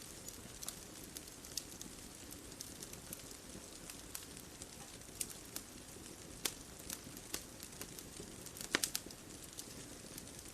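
Wood fire crackling, with irregular sharp pops and snaps over a soft steady hiss, and a quick cluster of louder pops near the end.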